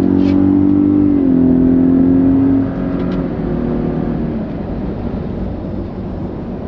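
Ford Raptor pickup's engine pulling hard under acceleration, its pitch stepping down about a second in as it shifts up, then easing off a little under 3 seconds in to steady cruising with road noise.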